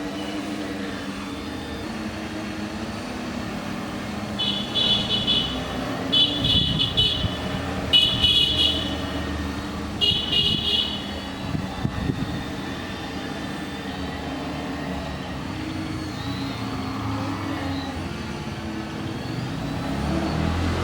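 Steady road traffic noise with four short horn toots, each about a second long, spaced a second or two apart.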